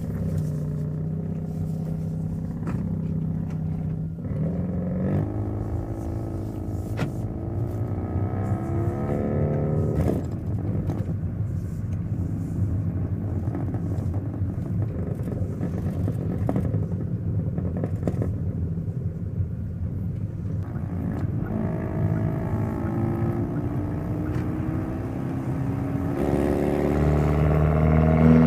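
Hyundai Elantra N's 2.0-litre turbocharged four-cylinder engine and exhaust under way, the revs climbing through a gear and dropping suddenly at a shift about ten seconds in. The revs climb again in the second half and the engine gets louder near the end.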